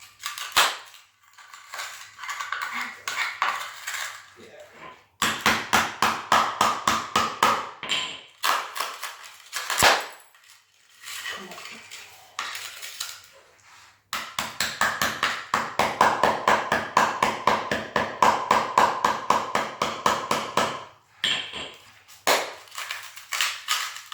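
Hand tool chipping at a cracked ceramic floor tile to break it out: two long runs of quick, light strikes, about five a second, with a few single harder blows and scattered knocks between them.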